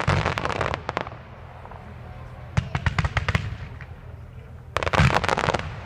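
Fireworks display: rapid volleys of sharp bangs in three clusters, at the start, around three seconds in, and near the end, over a steady low rumble.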